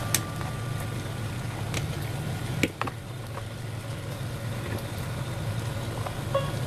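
Small metal spoon clinking and scraping a few times against a mini aluminium steamer pot while scooping out steamed sticky rice, over a steady low rumble. Music notes begin just before the end.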